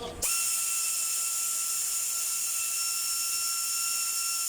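A workshop tool running steadily for about five seconds: a high, unchanging whine over a loud hiss, starting and stopping abruptly.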